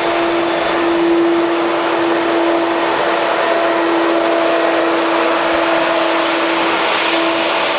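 Jet airliner's engines running with a steady whine over a broad rush of noise.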